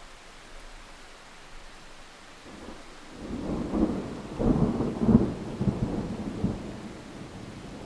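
Thunder rumbling over a steady hiss of rain: the roll builds about three seconds in, is loudest a little past the middle, then dies away.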